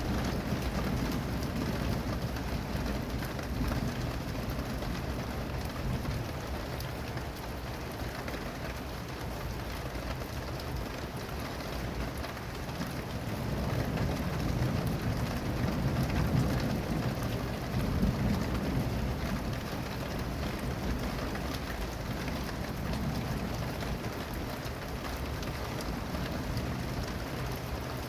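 Steady heavy rain falling and pattering on surfaces, with low rolling thunder rumbling and swelling about halfway through.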